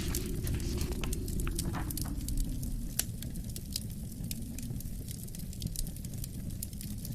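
Wood fire crackling, with irregular sharp pops and snaps, the loudest about three seconds in. Beneath it a low wind rumble sinks in pitch over the first few seconds, then holds steady.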